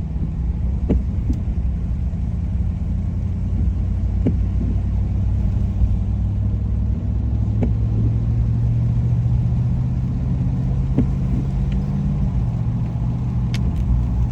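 Car engine and tyre rumble heard from inside the cabin while driving on wet roads, with a light click about every three and a half seconds from the windshield wipers.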